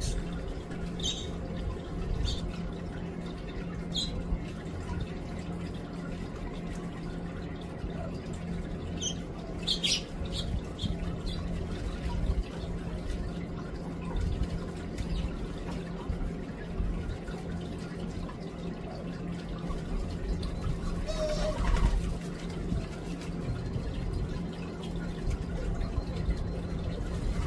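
Small songbirds chirping in short, high calls at a feeder: several chirps in the first few seconds and a cluster around ten seconds in. A steady low hum and rumble underlie it, and a brief louder rushing sound comes about 21 seconds in.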